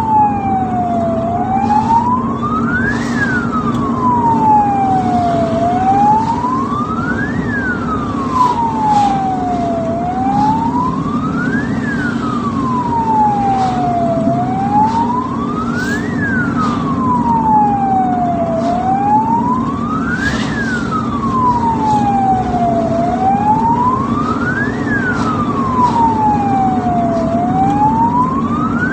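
Ambulance electronic siren wailing in a steady cycle: a quick rise in pitch, then a long slow fall, about every four and a half seconds. Beneath it runs a steady low drone of the moving vehicle.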